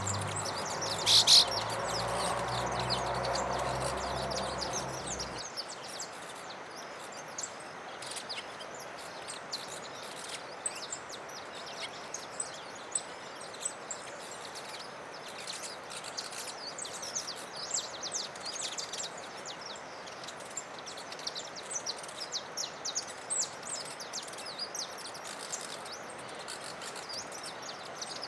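Wild songbirds chirping: many short, high chirps come thick and fast over a steady outdoor background hiss, with one loud chirp about a second in. A low pitched hum sits underneath for the first five seconds and stops abruptly.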